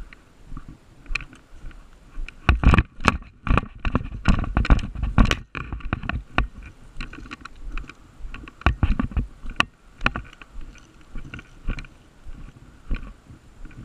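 Irregular knocks and clicks with dull low thuds. They come thickest a few seconds in and again about nine seconds in.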